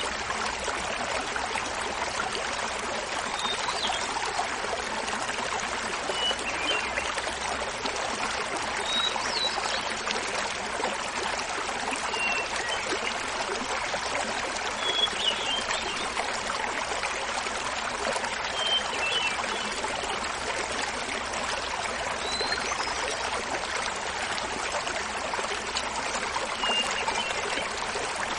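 Small mountain waterfall splashing steadily. A hermit thrush's song phrases come in faintly over it, a short phrase every three to four seconds.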